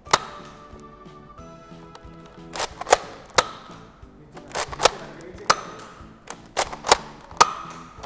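Nerf blaster firing foam darts: about a dozen sharp spring-action shots and clicks, several in quick pairs and triples, over steady background music.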